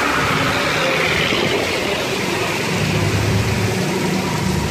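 Heavy rain pouring steadily on a flooded street while vehicles drive through it. A bus passes through the water at the start, and a motorcycle rickshaw's engine hums low from about three seconds in.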